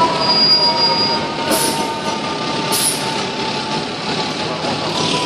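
Fire apparatus siren holding a steady, slowly falling tone. Two short hisses of air come about a second and a half in and again just under three seconds in.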